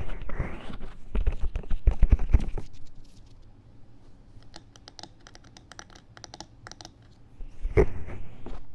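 Ear-cleaning tool scratching fast and hard inside the silicone ear of a 3Dio binaural microphone. Rough scratching fills the first few seconds, a run of light quick clicks follows, and a loud scratch comes again near the end.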